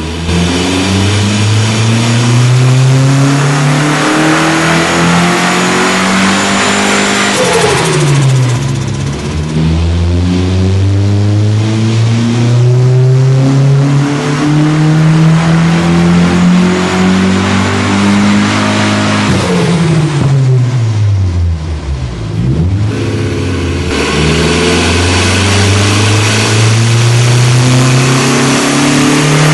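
Turbocharged Nissan Sentra Spec-V's QR25DE 2.5-litre four-cylinder being pulled on a chassis dyno. Twice the engine climbs steadily in revs over several seconds, then falls quickly as the throttle is lifted, and a third climb begins near the end.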